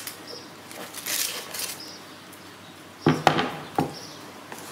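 A baked loaf turned out of its pot onto a wooden cutting board: a brief rustle about a second in, then three knocks a little after three seconds in.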